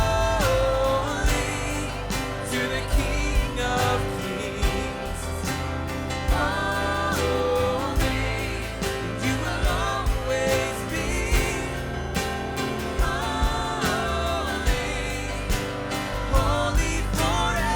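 Live worship band playing, with drums and bass under voices singing long held notes.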